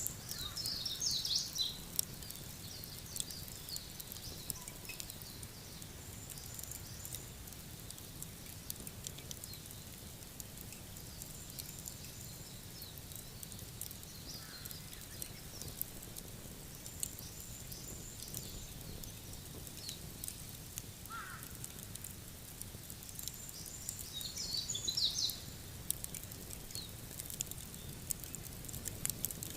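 Wood fire crackling, scattered sharp pops over a steady hiss, with a small bird chirping in quick clusters about a second in and again near the end.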